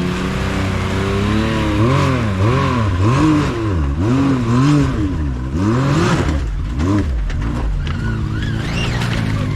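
Off-road vehicle's engine revving in a run of about five quick throttle blips, rising and falling in pitch: the driver is bouncing the front end up a rock ledge. Steadier running follows, with a few short high squeals near the end.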